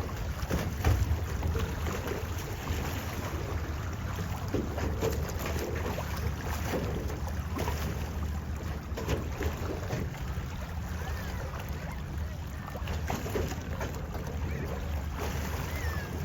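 Low, steady rumble of a passing self-unloading bulk carrier's engines, with wind on the microphone.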